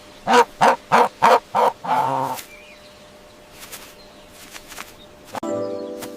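Domestic fowl calling: five short clucks in quick succession, then a longer drawn-out call. A sharp click and a new sustained pitched sound start near the end.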